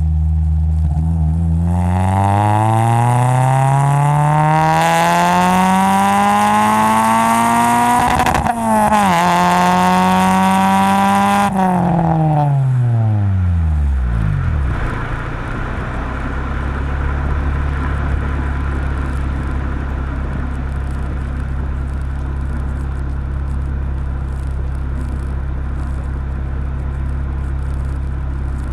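2003 Honda Civic Si's 2.0-litre four-cylinder engine through a Magnaflow cat-back exhaust with a test pipe, accelerating hard. The revs climb high, dip briefly at an upshift about eight seconds in, and climb again. Then they fall away and settle into a steady low drone.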